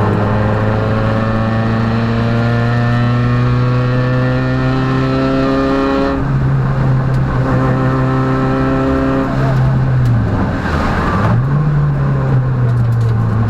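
Peugeot rally car engine pulling hard on a stage, its pitch climbing steadily, then dropping sharply at an upshift about six seconds in and climbing again. Around ten seconds in the revs dip briefly as the throttle is lifted, then pick back up.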